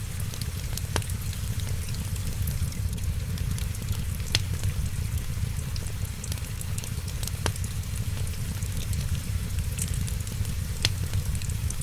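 Wood fire crackling, with a few sharp pops standing out over a steady low rumble and a fine hiss.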